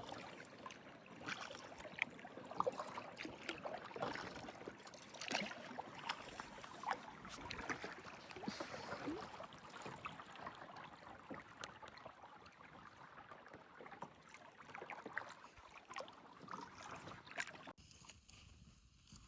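Kayak paddling on a lake: many small splashes and drips of water from the paddle blades, with light knocks, stopping abruptly near the end.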